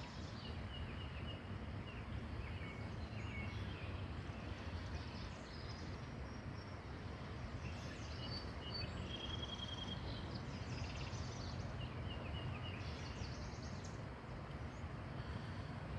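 Outdoor ambience: a steady low rumble with scattered short, high bird chirps throughout.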